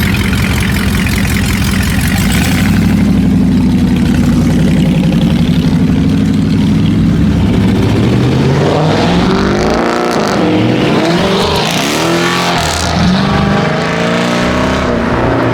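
A loud car engine running with a steady note, then revving up and down repeatedly from about halfway in.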